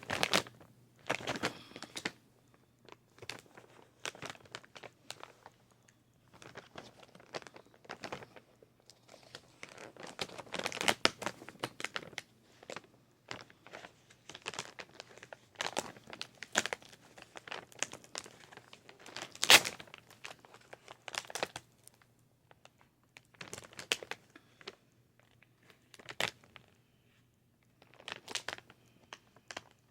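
Plastic snack wrapper crinkling and tearing as it is opened and handled, in irregular bursts of crackle, the sharpest about two-thirds of the way through.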